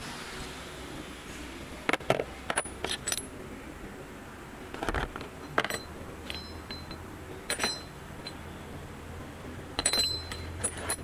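Metal parts clinking and clicking as they are handled, in scattered sharp knocks, some with a short metallic ring. They come in clusters about two seconds in, around five seconds, and near the end.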